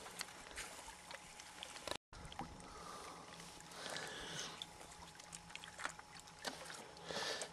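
Faint water lapping and splashing, with a brief louder rush of noise near the end.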